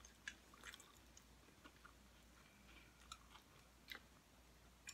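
Faint chewing of nachos close to the microphone, a few soft crunching clicks scattered through, over a steady low hum.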